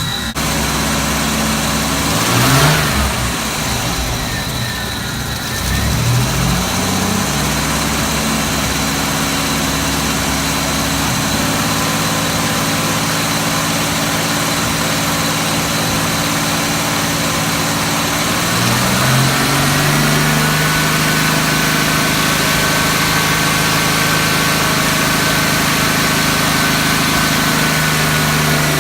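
Car engine idling with a misfire. It is blipped up briefly twice in the first few seconds, then raised to a higher steady speed about two-thirds of the way through and held there.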